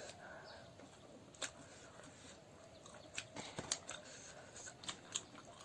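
A person eating: quiet chewing with a scattered run of small wet mouth clicks.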